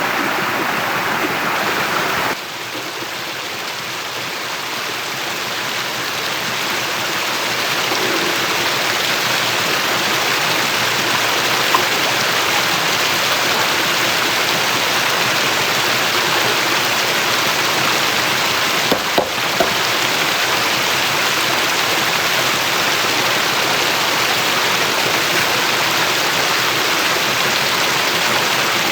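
Water rushing steadily. The sound changes abruptly about two seconds in and builds back up over the next few seconds, with a few brief clicks near the middle.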